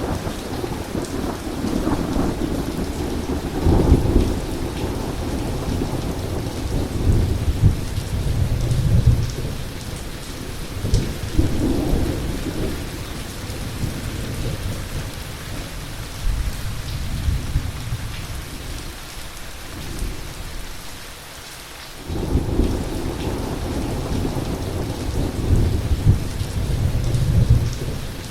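Heavy rain falling steadily under repeated rolls of thunder that swell and fade several times. The rumble dies down about twenty seconds in, then a new roll breaks in abruptly about two seconds later.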